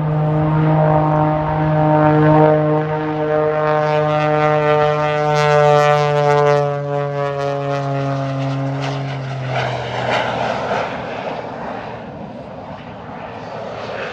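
Jet-assisted Pitts S2S aerobatic biplane flying by. The piston engine and propeller drone with a pitch that slowly falls over about ten seconds. Near the end the drone gives way to a rushing roar from its jet engines.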